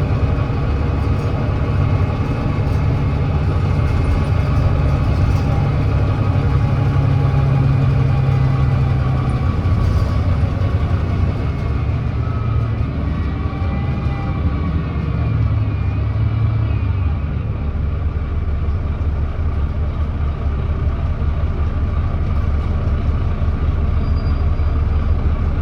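Volvo D9B 9.3-litre diesel engine of a Volvo B9TL double-decker bus running, its note falling in two steps about halfway through and then settling to a lower, steady run as the bus eases off. The bus has an exhaust leak.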